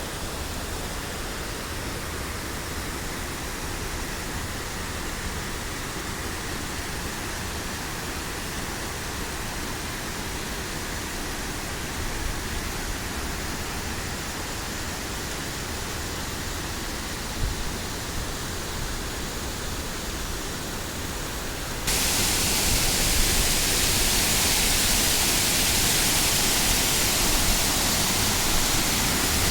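Steady rush of water, an even noise with no rhythm, that jumps suddenly louder about 22 seconds in and holds there.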